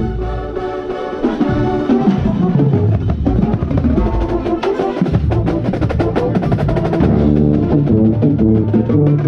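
Drum and bugle corps playing: sustained brass chords over rapid snare and bass drum strokes, heard from within the tuba section on the field.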